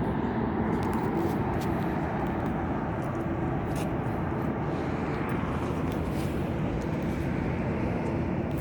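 Steady rumble of jet aircraft engines, with a faint steady hum that comes in about five seconds in.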